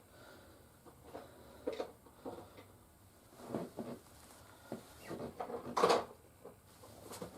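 Plastic toy action figures being handled and set down. Irregular light clacks and knocks come every second or so, with a louder cluster of knocks near the end.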